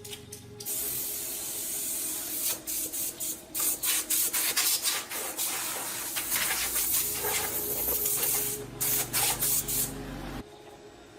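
Pressurised spray hissing in repeated short bursts, with a low hum joining in about six seconds in; both cut off suddenly near the end.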